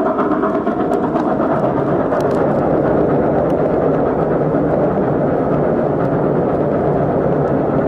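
Passenger train hauled by Baldwin steam locomotive No. 734 running steadily through a tunnel, a continuous rumble of the train heard from an open coach window. The sound deepens a little a second or two in as the coaches pass into the tunnel.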